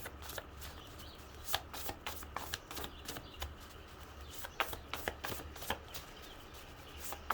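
Tarot cards being shuffled by hand: a quiet run of irregular light flicks and snaps of the cards.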